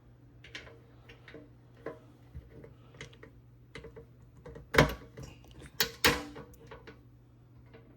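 Irregular light clicks and taps of small hard parts being handled, with two much louder knocks about five and six seconds in, over a steady low hum.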